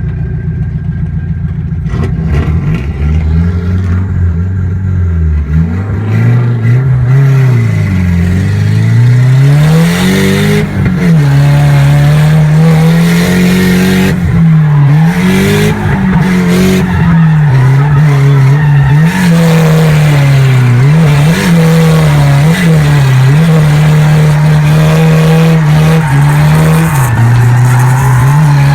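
Drift car being driven hard: its engine revs up and down and holds high revs for long stretches with short dips, over tyre squeal from the tyres sliding.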